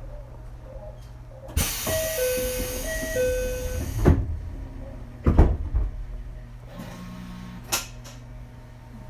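Passenger doors of an Ichibata 7000-series railcar closing at a station: a two-note high-low door chime sounds twice over a hiss of air, then the doors shut with two heavy thuds. A short steady hum and a click follow near the end.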